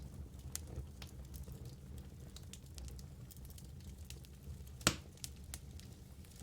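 Wood fire burning in a fireplace: logs crackling with scattered sharp pops over a low steady rumble, one loud pop about five seconds in.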